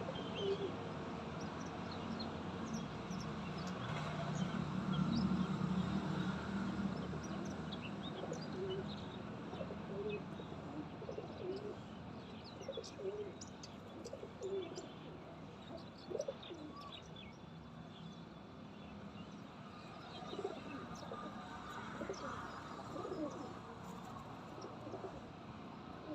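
Pigeons cooing in short low calls while small birds chirp in quick high notes, over a low background rumble that is loudest about five seconds in.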